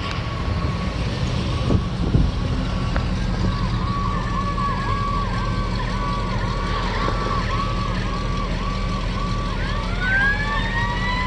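Fire engines responding with sirens over a steady truck engine rumble. A siren runs on a fast yelp, about two cycles a second, and near the end a second siren winds up, rising in pitch. A couple of short knocks come about two seconds in.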